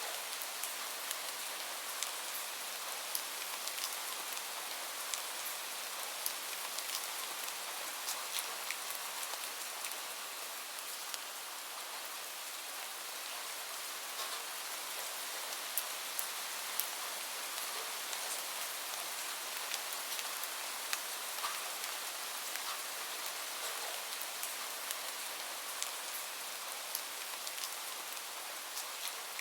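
Steady rain falling, a dense even hiss with many scattered sharp clicks throughout.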